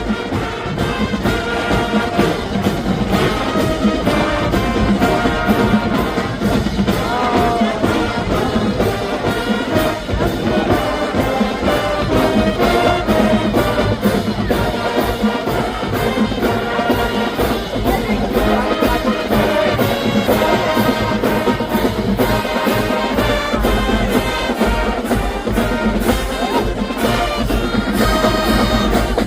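Marching band playing, brass section over a drumline keeping a steady beat.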